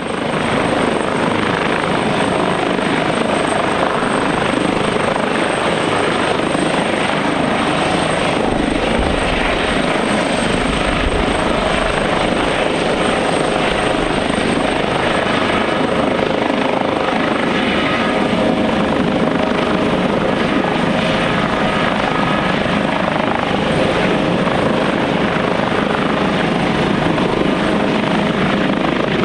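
Airbus H145 twin-turbine helicopter running steadily and loudly, a dense blend of rotor noise and turbine whine with a thin high-pitched whine on top for the first half.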